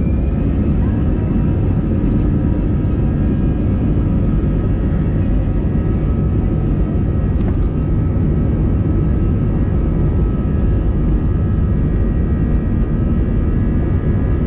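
Airbus A320 jet engines at takeoff thrust, heard from inside the cabin: a steady, loud rumble with a high engine whine that has just risen and now holds at a constant pitch.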